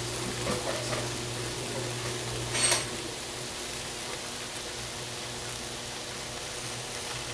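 Eggplant pieces cooking in oil in a stainless steel pot: a soft, steady sizzle over a low hum, with one brief, louder sharp burst about two and a half seconds in.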